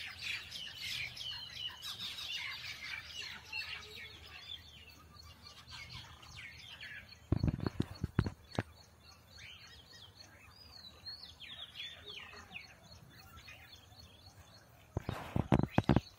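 Birds chirping and calling, thickest in the first few seconds and again about two thirds of the way through. Two clusters of loud thumps and knocks break in, about seven seconds in and again near the end.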